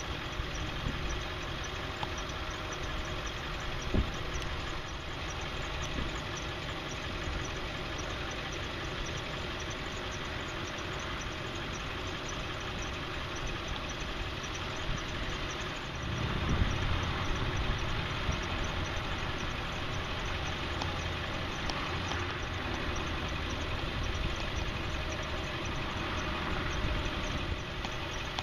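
Diesel engine of a 2002 Ford F550 bucket truck (7.3-litre Power Stroke V8) idling steadily. There is a single sharp click about four seconds in, and the engine gets louder for a couple of seconds around sixteen seconds in.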